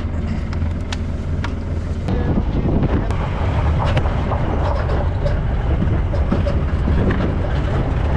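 A motor vehicle running while riding in it: a steady low rumble with road noise and scattered rattles, growing louder about two seconds in.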